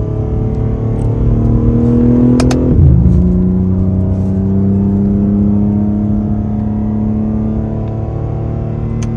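BMW M3 Competition (G80) twin-turbo inline-six, on a CS software tune, heard from inside the cabin as it pulls up through the revs, then upshifts about three seconds in with a sharp crack and a sudden drop in engine pitch. After the shift it cruises at lower, steady revs that sink slowly.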